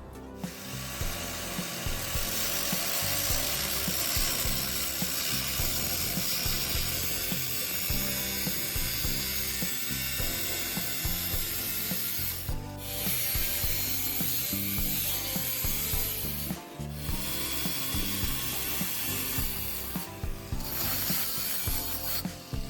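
A steel tank being cut open: a harsh rasping hiss that stops briefly three times, over background music.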